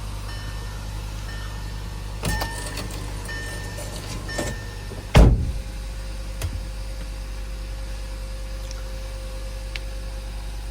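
2013 VW Beetle's 2.5-litre five-cylinder engine idling steadily just after a cold start at −11 °F. A few knocks are heard, with one loud thump about five seconds in, and a faint steady whine joins shortly after.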